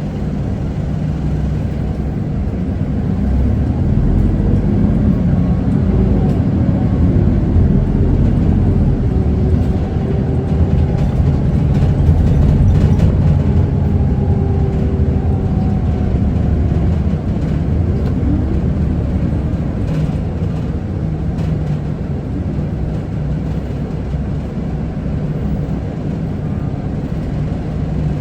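Isuzu Erga city bus's four-cylinder diesel and drivetrain heard from inside the cabin while driving: a steady low rumble with a whine that rises in pitch as the bus speeds up, then falls away as it slows.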